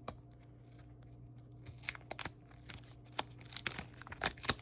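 Mail packaging being torn open and crinkled by hand: irregular crackling rustles that start about a second and a half in and keep going in quick, uneven bursts, over a faint steady hum.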